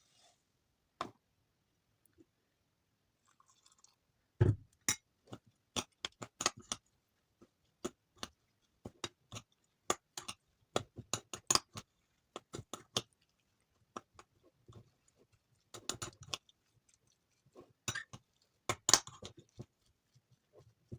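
Soap shavings crunching and crackling as they are handled, in many sharp irregular crackles that begin about four seconds in and come in denser clusters near the end.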